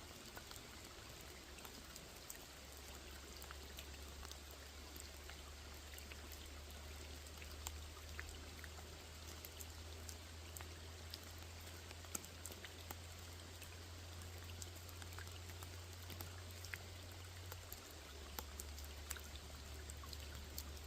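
Steady rain falling on a pond: an even, quiet hiss with scattered individual drops ticking through it, over a constant low hum.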